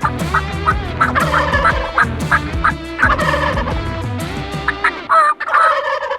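Wild turkey gobbler gobbling repeatedly, the male's spring call, over background music that drops out about five seconds in, leaving one last gobble.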